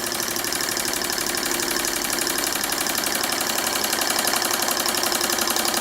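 Empire Model 62 model steam engine running steadily with a rapid, even beat of piston and flywheels, still going on stored steam after its heater has been switched off.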